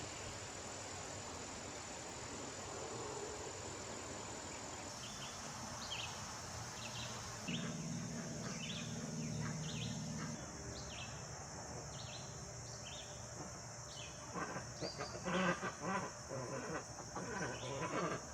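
Summer insects droning steadily, with a bird repeating a short chirp about once a second. Near the end, a burst of louder, busier animal calls comes in.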